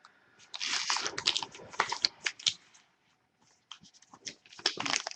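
Rustling and clicking of sealed football trading card packs and an emptied card box being handled, in two bursts with a pause of about a second midway.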